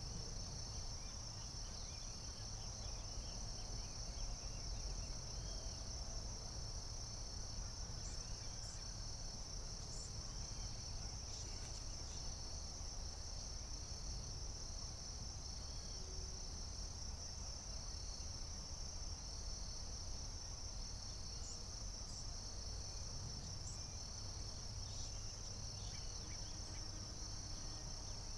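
Forest insects chirping without pause: one continuous high trill, with a second insect's evenly repeated pulsed chirping just beneath it, over a low steady rumble.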